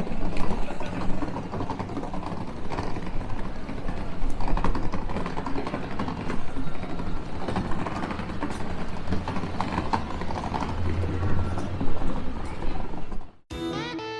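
Busy city street ambience: footsteps and the voices of many passersby over a steady traffic hum. About thirteen seconds in it cuts off abruptly and a guitar tune begins.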